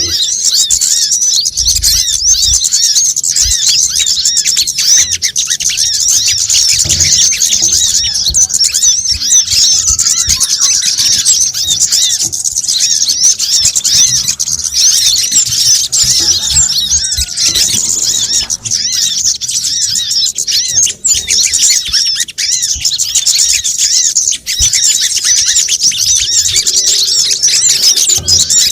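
Bird-lure recording of small birds (kemade, sogon and kolibri kelapa sunbirds) calling in a dense, unbroken chorus of high-pitched chirps and twitters, played to attract them.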